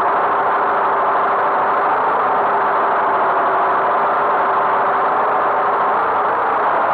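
Tractor engine running steadily, a constant drone with one held tone that doesn't change.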